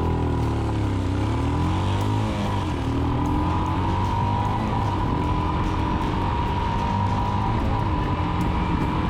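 Royal Enfield Himalayan's 411 cc single-cylinder engine running through a PoweRage free-flowing slip-on exhaust. The engine note dips and climbs again a few times in the first three seconds, then holds steady.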